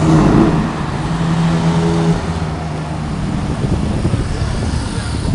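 A sports car's engine running loud as it pulls away along a city street, with a steady engine note for the first couple of seconds, then a rougher, lower rumble amid traffic noise.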